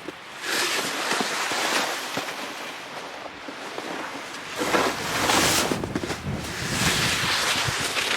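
Wind gusting across the microphone, a rushing noise that swells and eases several times.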